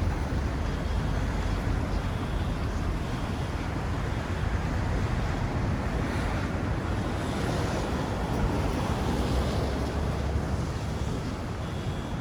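Steady downtown street ambience: a constant low rumble of traffic, with no distinct events.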